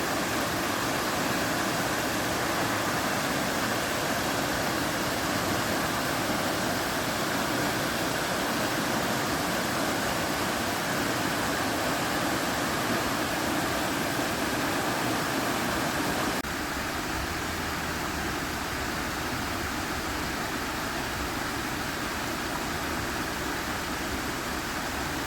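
Waterfall on a mountain creek, water rushing steadily. About two-thirds of the way through the sound changes abruptly to a slightly quieter, deeper rush of water.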